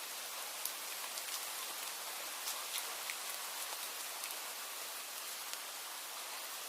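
Steady rain falling, an even hiss with many small drops ticking sharply on a surface.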